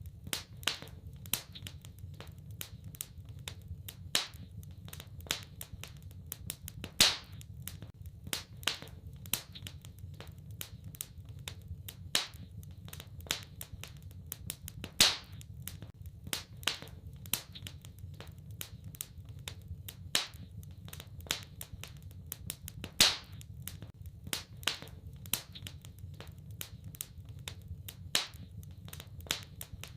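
Wood fire in a fireplace crackling, with frequent sharp pops and snaps over a steady low rumble of the flames. The loudest pops come about every eight seconds.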